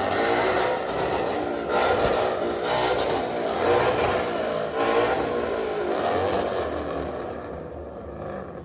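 A car engine revving hard and loud, then fading away over the last two seconds or so.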